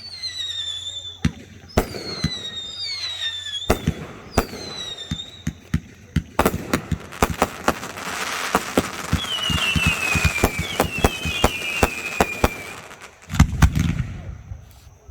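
Fireworks display: whistling effects falling in pitch over scattered sharp pops, then a dense crackle with more falling whistles, and a deep boom near the end.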